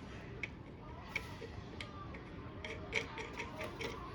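A series of light, irregular clicks and ticks, about eight in four seconds, from tools and small metal parts being handled.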